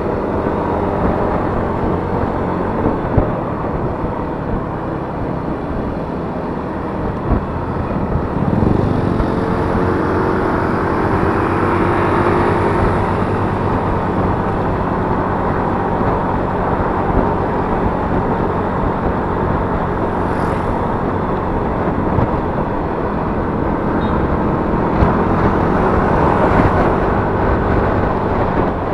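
Yamaha Mio S 125 cc automatic scooter running on the road, heard from the rider's chest-mounted camera with a steady rush of wind and road noise; the engine note rises about eight seconds in as it speeds up.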